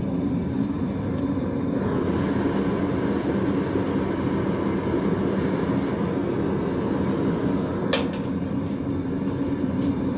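Steady low rushing roar of a coal forge's air blower running, with one sharp click about eight seconds in.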